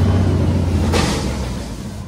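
Garbage truck's diesel engine running with a steady low rumble, with a short burst of noise about a second in.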